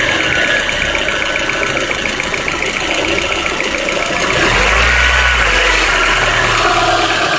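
Peugeot 206 engine running cold at idle with a strange noise, a rapid, even ticking, which the owner says goes away after about ten minutes of warming up. A deeper drone joins in about halfway through.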